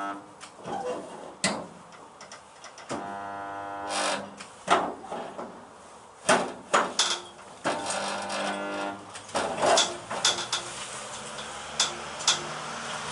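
Welder putting tack welds into a car body panel: several buzzing bursts of about a second each, between sharp clicks and metallic knocks of clamps and tools.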